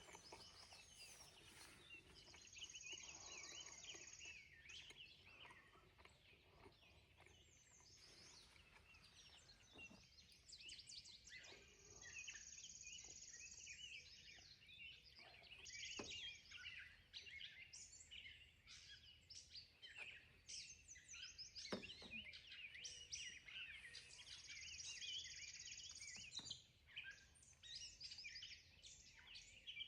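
Birds chirping and singing, faint, with many short overlapping calls, and a high buzzing trill that comes three times for about two seconds each. A few soft knocks break in.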